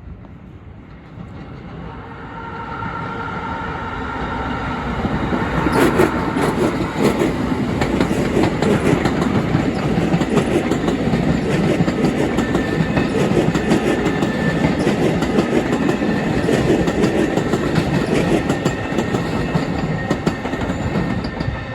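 A train approaching and passing close by. It grows louder over the first six seconds, then keeps up a steady rumble with rapid wheel clicks over the rail joints.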